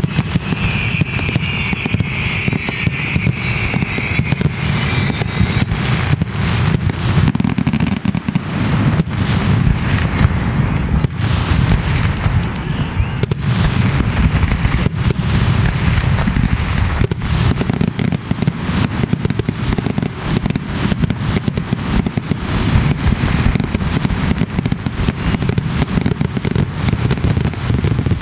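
Fireworks finale barrage: aerial shells bursting in rapid, overlapping succession, with no pause between the bangs.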